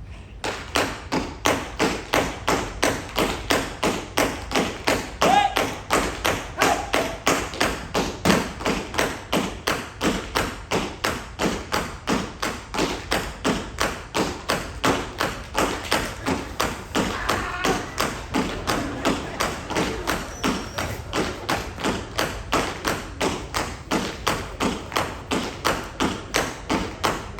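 Live stage percussion: heavy thuds and taps struck in an even, driving beat of about three a second.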